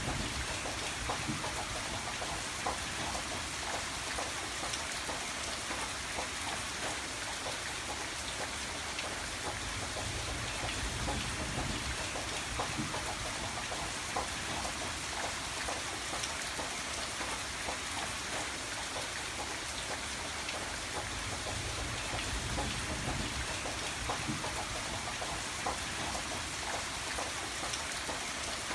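Steady rain falling, an even hiss full of small droplet ticks, with a low rumble underneath.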